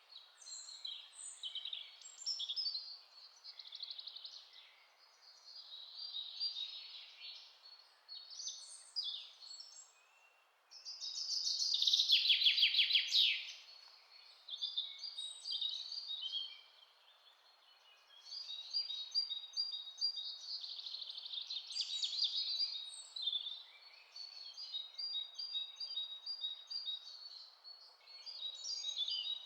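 Several songbirds singing in a forest, with overlapping chirps and short trills, over a faint steady hiss. About eleven seconds in, one bird gives a loud, rapid trill lasting about two seconds.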